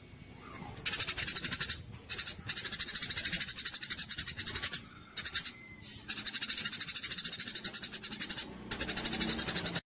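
Small songbird giving rapid, high-pitched trills of about ten sharp notes a second, in bursts of one to two seconds separated by short pauses, as used in a bird-song tutor (masteran) recording. The sound cuts off abruptly near the end.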